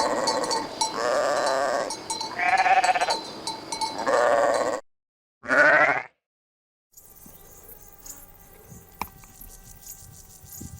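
Sheep bleating: about five wavering bleats in a row, a short silence, then one more bleat. After that the sound cuts to a much quieter stretch of faint steady tones with a few clicks.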